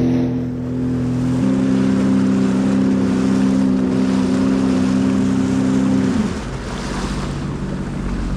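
Sea-Doo jet ski engine running steadily at low power, the ski in limp home mode, over the rush of water and wind. The engine's steady tone ends about six seconds in, leaving the water and wind noise.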